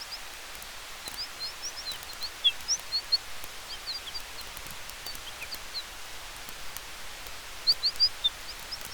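Forest ambience: a steady hiss of wind with small birds chirping in quick, high clusters, the loudest group near the end, over faint campfire crackles.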